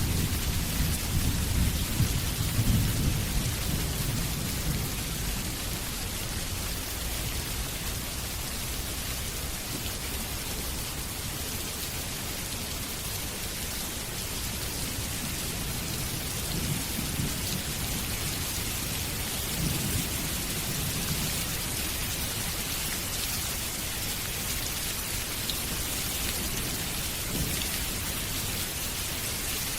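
Steady heavy rain with rolling thunder: low rumbles swell in the first few seconds and again around the middle.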